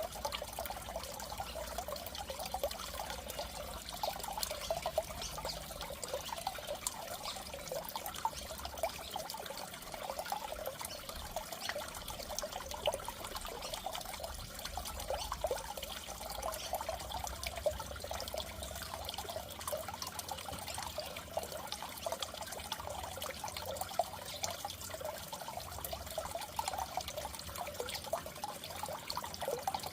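Steady trickling and bubbling water in a goldfish aquarium, with small gurgles throughout.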